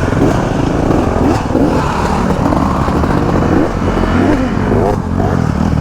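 Dirt bike engines running and revving unevenly, the pitch rising and falling.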